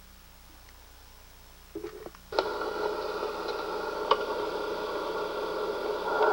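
A faint hum, then a few clicks, then about two seconds in a loud, steady drone of several held tones starts suddenly and holds, like a dubbed magical sound effect.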